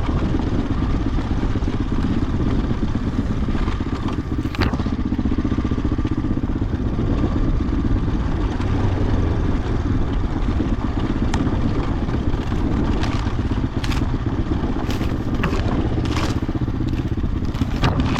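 2007 Husqvarna TE-450's single-cylinder four-stroke engine running steadily as a dirt bike rides a trail, with sharp clacks and scrapes from the bike at about four seconds in and several more in the last third.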